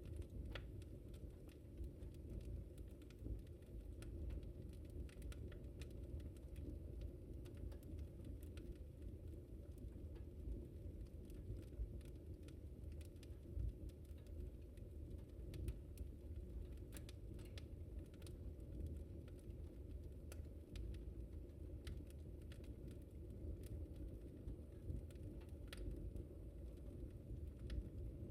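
Wood fire crackling in a fireplace: a steady low rumble under frequent small, sharp pops and snaps, scattered irregularly.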